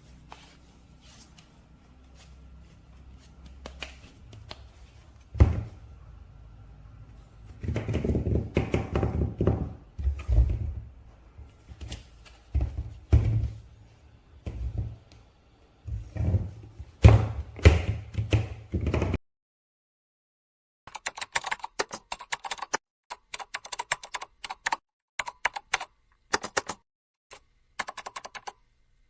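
Handling of action figures and their packaging: irregular clicks, taps and rustles with a few deeper thumps. After a short silence comes a run of rapid light clicks.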